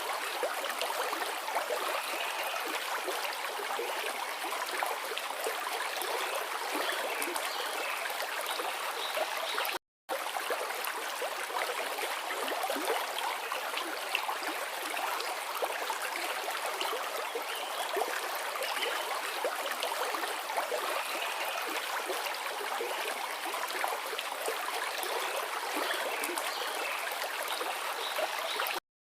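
River water flowing, a steady rushing with fine gurgling. The sound cuts out completely for a split second about ten seconds in and again just before the end.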